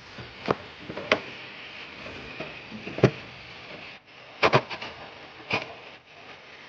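Scattered sharp clicks and knocks of tools and parts being handled, the loudest about three seconds in and a quick cluster of clicks around four and a half seconds, over a steady low hiss.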